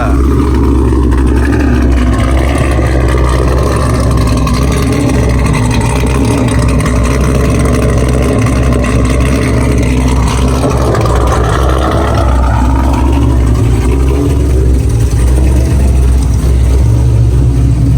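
Cammed 2016 Chevrolet Camaro SS's 6.2 L LT1 V8 running steadily at idle after a cold start, loud and low-pitched through its exhaust.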